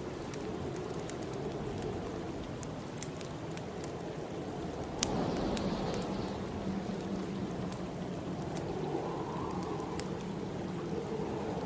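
Wood fire crackling, with scattered sharp pops over a steady rush of snowstorm wind. One louder pop comes about five seconds in, and the wind grows slightly fuller after it.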